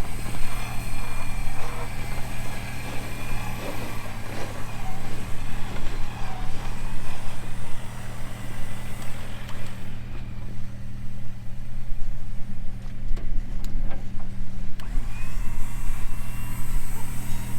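A Jeep engine running steadily at idle during a snow recovery pull, with a faint thin whine early on and again near the end.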